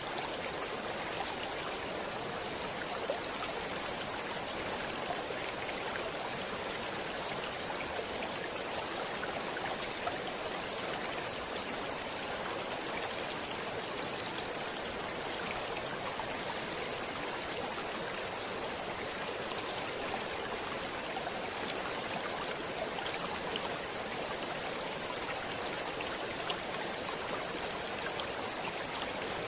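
Stream water running and splashing steadily, a constant rushing hiss with small scattered drips and splashes.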